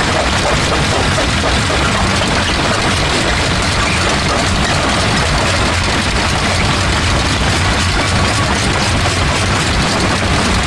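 Industrial rock crusher running as it breaks black stone: a steady, loud, heavy mechanical rumble overlaid with a dense, continuous grinding clatter of rock.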